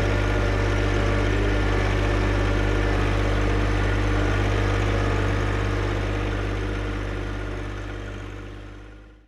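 John Deere 1025R sub-compact tractor's three-cylinder diesel engine running at a steady speed, fading away near the end.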